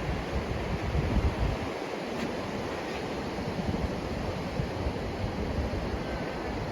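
Ocean surf washing steadily with wind buffeting the microphone, the buffeting heaviest in the first second or two.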